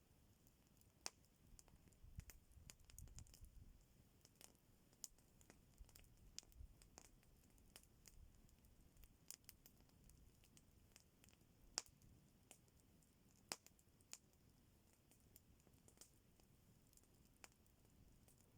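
Faint, irregular crackling and popping of a wood campfire, a couple of sharper pops in the second half.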